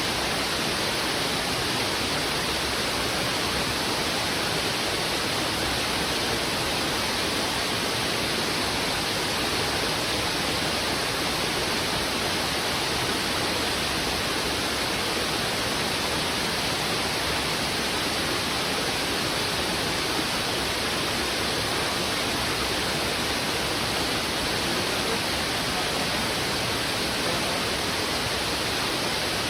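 Heavy river water rushing over rocks in a strong current, a steady, dense rush that stays even throughout.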